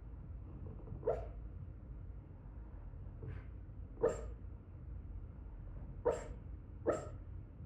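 Shih Tzu giving short, soft woofs in its sleep: four brief calls with a fainter one among them, the sounds of a dog dreaming.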